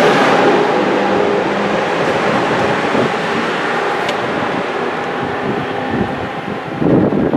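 First-generation Amtrak Acela Express trainset going by at speed: the rush of wheels and air from the rear power car, with a steady hum, fading as the train pulls away down the track.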